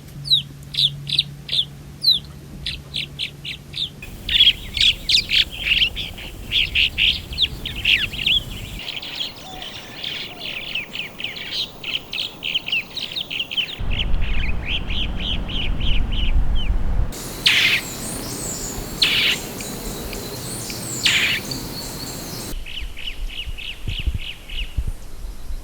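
Swallows calling: rapid series of short, high chirps and twitters. Several separate recordings follow one another with abrupt cuts, about every four to five seconds.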